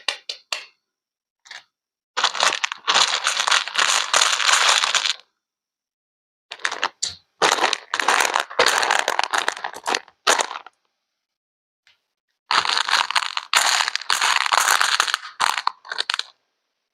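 Three long spells of dense crackling, crunching noise, each lasting a few seconds, separated by dead silence, with a few short clicks at the start.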